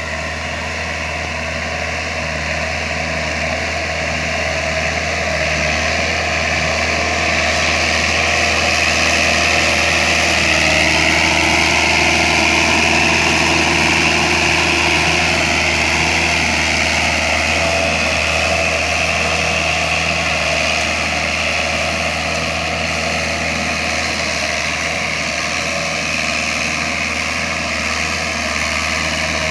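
VST mini tractor's diesel engine running steadily, growing somewhat louder toward the middle and easing back a little after.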